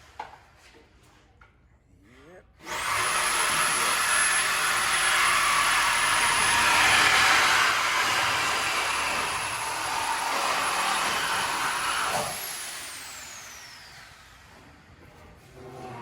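High-speed pneumatic rotary tool in a shop, starting abruptly and running hard for about ten seconds with a loud hiss and a thin high whine, then cut off, its whine falling away as it spins down.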